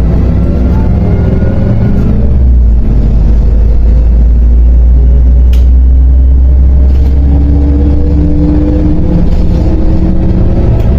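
MAZ 105 articulated city bus heard from inside, its engine and drivetrain giving a heavy low drone, with a rising whine as it accelerates during the last few seconds. A single sharp click about halfway through.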